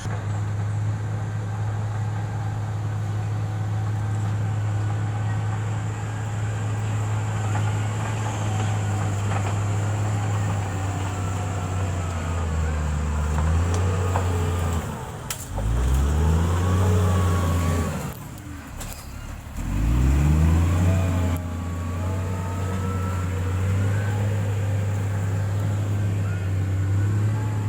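Heavy road-equipment diesel engine running steadily. Twice around the middle it drops low and climbs back up in pitch as it revs.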